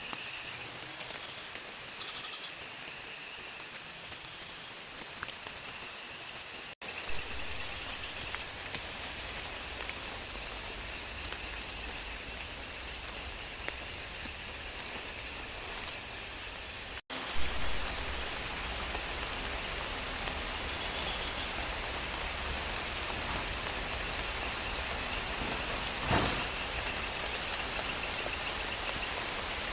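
Steady rain falling, with scattered drops ticking. It grows heavier after two brief breaks, about a third and halfway through.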